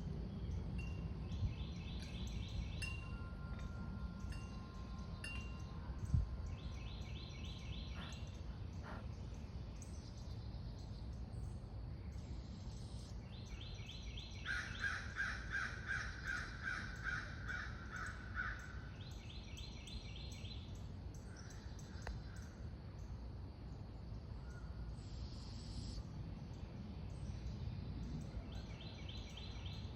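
Birds calling outdoors. Short raspy trills come back every few seconds, and a run of about a dozen quick repeated calls comes midway, all over a steady low rumble.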